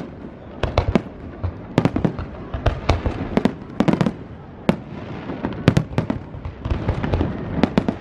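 A fireworks display going off: sharp bangs coming in quick clusters of three or four, about every second, one after another.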